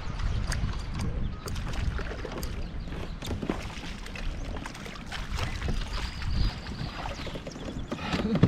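Kayak on open water, with a low wind rumble on the microphone, water moving against the hull, and scattered small clicks and knocks of gear being handled.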